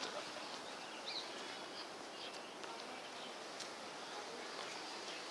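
Steady outdoor background hiss with a few faint bird chirps, one about a second in and another a little after two seconds.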